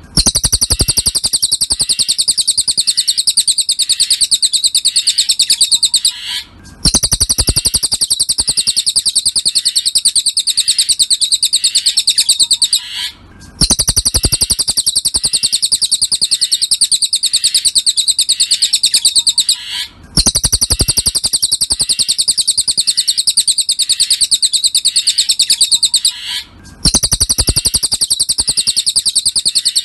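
Cililin bird song: a fast, high-pitched trill of rapid chirps held for about six seconds, breaking off briefly and starting again, several times over in an even, repeating pattern.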